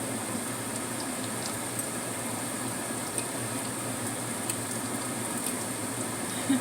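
Tofu pieces frying in hot oil in a pan: a steady sizzle with a few light ticks.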